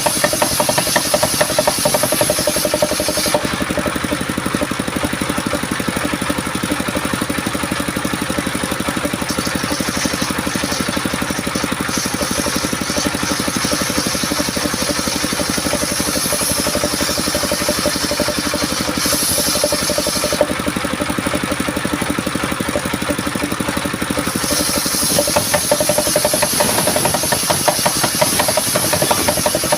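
Homemade circular sawmill running steadily while sawing coconut-palm wood, a continuous machine drone with a fine rapid pulse. A high hiss drops out a few seconds in and returns twice, briefly and then for the last few seconds.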